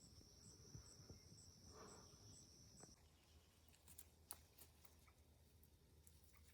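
Near silence with a faint, high-pitched, steady insect trill that stops about three seconds in, followed by a few faint ticks.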